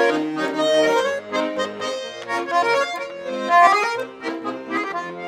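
Russian button accordion playing an instrumental interlude of a lively folk tune: a quick melody over sustained chords, with short bass notes on the beat.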